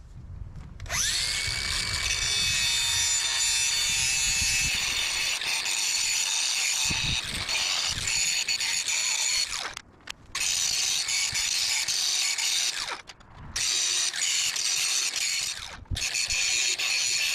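Power tool spinning up about a second in and running steadily against the steel punch, with short breaks about ten, thirteen and sixteen seconds in.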